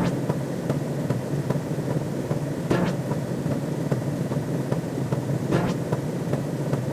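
Sci-fi sound effect: a steady low rumble with faint regular ticking, and a brief brighter swell about every three seconds, twice here.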